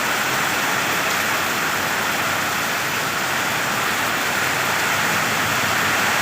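Heavy rain falling, a steady even downpour.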